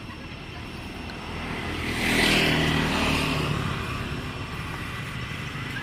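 A motor vehicle passing by: its engine and tyre noise swell to the loudest point about two seconds in, then slowly fade.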